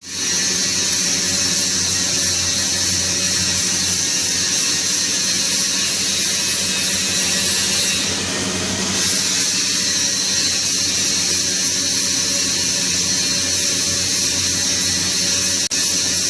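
Electric welding arc buzzing and hissing steadily, with a low hum beneath; the sound shifts briefly about halfway through and cuts out for an instant near the end.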